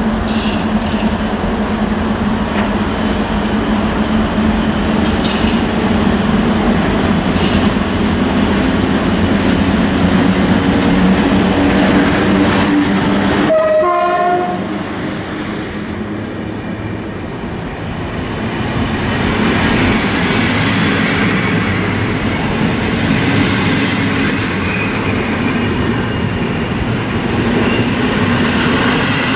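EP07 electric locomotive hauling passenger coaches past, with a steady running hum as it comes in. About halfway through comes a short horn blast, the Rp1 warning signal, as the locomotive passes. The coaches' wheels then roll by on the rails.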